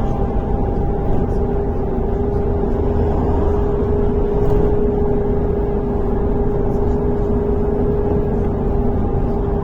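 Inside a MAZ-103 city bus: the engine and drivetrain run steadily with a low rumble and a constant whine.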